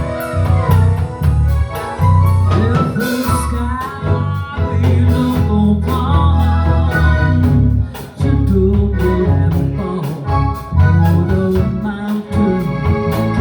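Live blues band playing a song, with a steady drum beat, a strong bass line and guitar.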